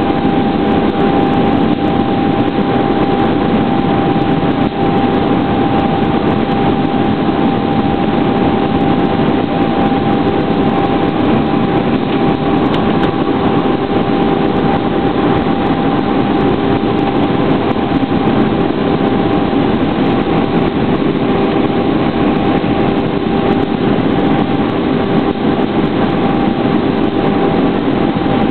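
Steady cabin noise inside an Airbus A320 in flight: a constant rush of airflow and engine hum with a steady, unchanging whine over it.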